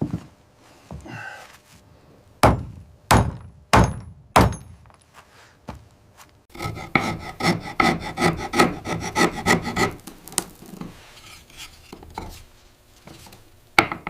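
Wood being worked by hand: four hard blows on wood a little over half a second apart, then a few seconds of quick back-and-forth strokes on wood with a ringing edge, and one more blow near the end.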